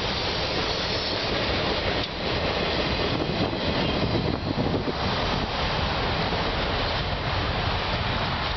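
CSX freight train of covered hopper cars rolling past, its steel wheels on the rails making a steady, dense noise with a brief dip about two seconds in.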